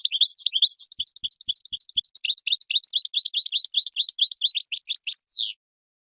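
European goldfinch singing: a fast, unbroken twittering run of rapid chirps that ends near the end with a single falling note.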